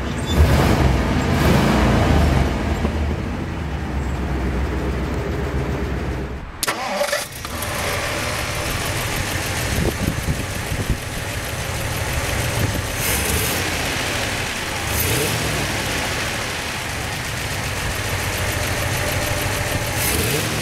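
1957 Ford Thunderbird's Y-block V8 idling smoothly. The sound breaks off briefly about six and a half seconds in, then the idle carries on steadily.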